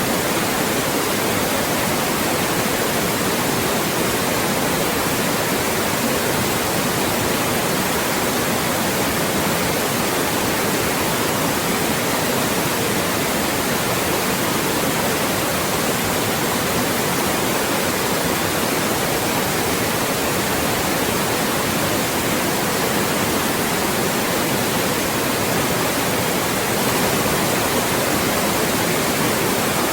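Loud, steady synthetic white noise: an even hiss across all pitches that never changes, used as a speech blocker.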